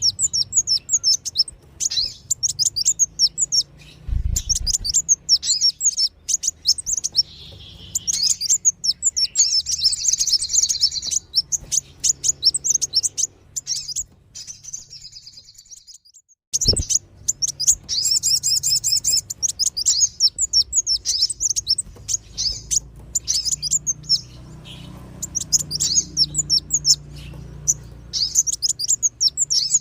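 Bird-lure recording of sunbird (kolibri wulung) and spiderhunter (sogon) calls: rapid, high-pitched chirping trills repeated in dense runs. The chirping briefly fades out past the middle, then resumes with a sharp click.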